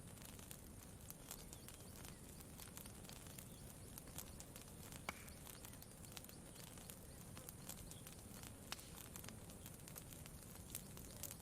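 Campfire crackling softly: scattered small pops and snaps, one sharper pop about five seconds in, over a steady low background noise.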